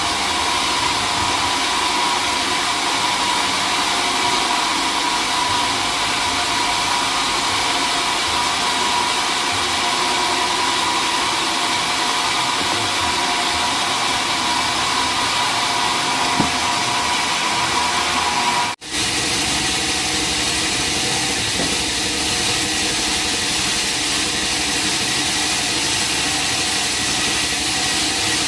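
Sawmill machinery running steadily, a constant mechanical noise with a few held tones. It cuts out for an instant about nineteen seconds in, then carries on with a slightly changed tone.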